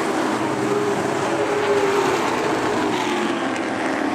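Race truck engines running at speed on the track, a steady engine note that falls somewhat in pitch in the second half.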